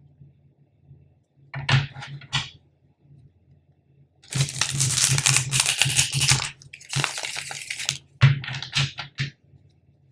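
A deck of tarot cards being shuffled: a few short snaps of the cards, then a rapid riffling rush lasting about four seconds, then more quick snaps and flicks.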